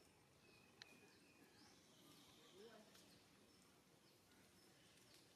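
Near silence, with a few faint bird chirps.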